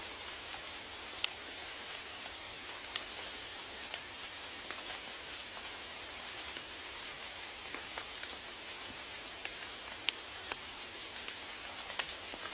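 Steady rain falling, an even hiss with individual drops ticking sharply on a surface every so often.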